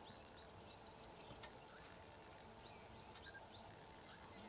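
Near-silent bush ambience with faint small birds chirping: many short, quick high notes scattered through.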